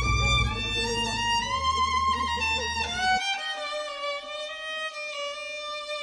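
Background music: a violin playing a slow melody of held notes that slide from one pitch to the next.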